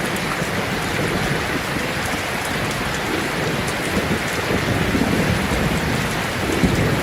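Heavy rain falling steadily on a sheet-metal roof, an even hiss flecked with drop impacts. A low rumble rises near the end.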